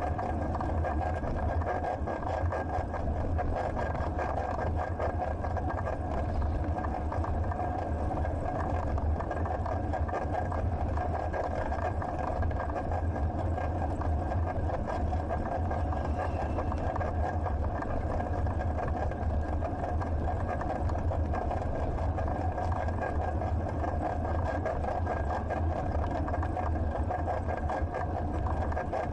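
Steady rolling noise of a bicycle ride picked up by a bike-mounted action camera: a constant low rumble with a thin steady whine, unchanging throughout.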